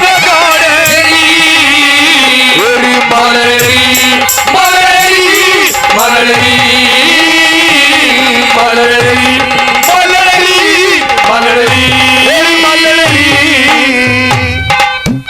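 Instrumental interlude of Haryanvi ragni folk music: a wavering melodic lead plays over a held lower note, with steady hand-drum strokes keeping the rhythm.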